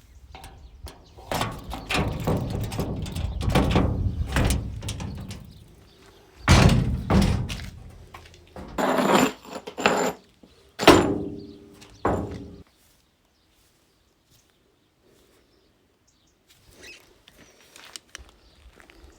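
Thunks and knocks of a door being handled, with a short squeak about nine seconds in; the sound cuts out suddenly around the middle, leaving near silence.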